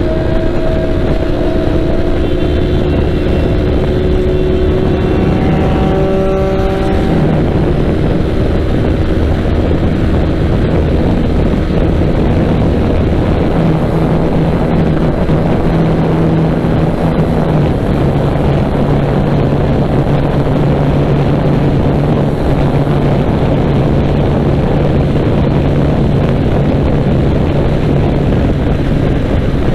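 KTM RC 390's single-cylinder engine pulling hard at highway speed under heavy wind noise. The engine note climbs over the first several seconds, then holds steady, stepping slightly lower partway through.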